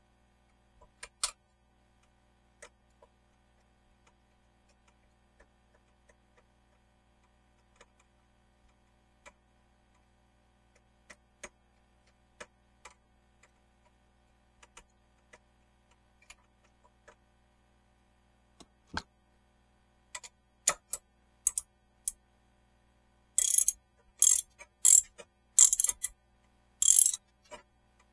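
Scattered clicks and taps of hand tools at work, then several short bursts of rapid ratchet-like clicking near the end.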